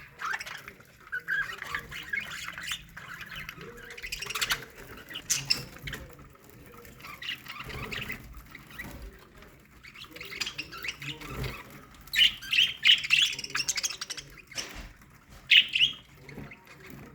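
A colony of budgerigars chattering in an aviary: many birds warbling and chirping at once, with several louder squawks about three-quarters of the way through.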